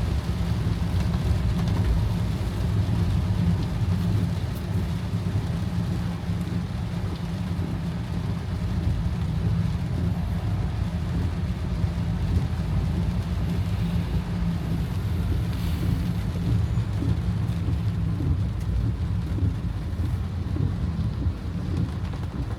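Heavy rain falling on a car, over the car's steady low engine and road rumble.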